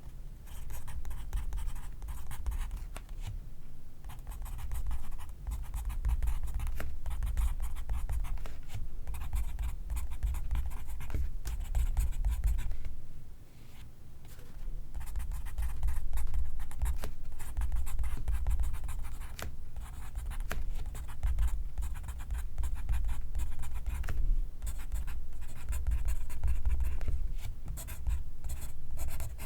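Pencil writing on paper: a steady run of fine scratchy strokes over a low rumble, broken by short pauses about four and thirteen seconds in.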